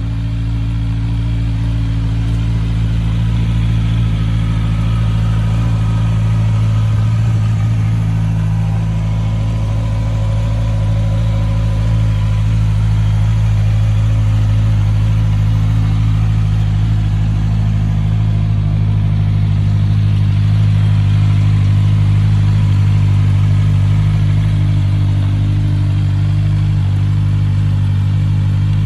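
2021 Honda CBR650R's inline-four engine idling steadily at an even pitch.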